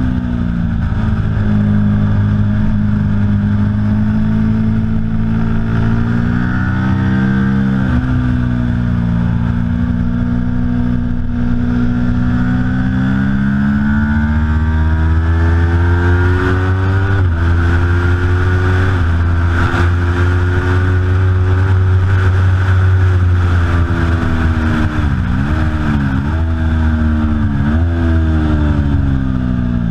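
Aprilia Tuono V4 motorcycle's V4 engine at racing speed, its pitch climbing through the gears and dropping back. Near the end come three quick dips and recoveries in pitch: downshifts under braking.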